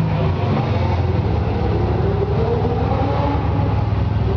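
Car engine running and accelerating, its pitch rising slowly over a steady low rumble.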